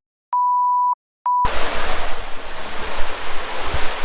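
A censor-style bleep edited in: a steady 1 kHz tone sounds in three pieces, short, longer, short, with all other sound cut out. About a second and a half in, the loud steady rush of a river's running water returns.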